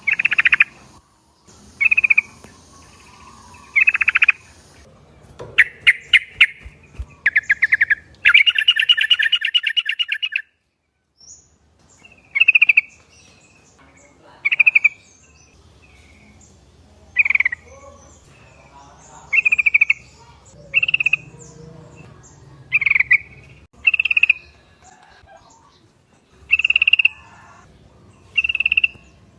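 Sooty-headed bulbuls (trucuk) calling: short, sharp notes repeated every second or two, with a fast run of rattling chatter from about six to ten seconds in, then a brief break before the single calls resume.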